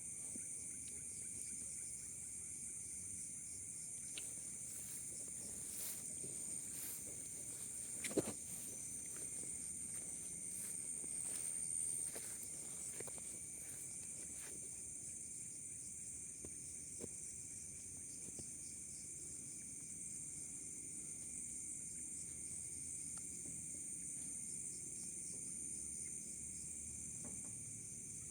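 Forest insects, crickets or cicadas, chirring in a steady high-pitched chorus. Scattered faint clicks run through it, with one sharp snap about eight seconds in.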